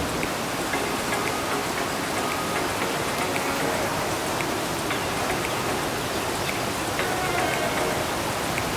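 Rushing water in a narrow rock gorge: a loud, steady rush, like heavy rain, of the river together with water falling from the rock walls above.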